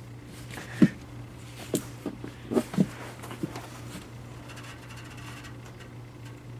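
A wrench being worked against a stuck, over-tightened oil drain plug: about six sharp knocks and clicks in the first few seconds, the loudest about a second in, over a steady low hum.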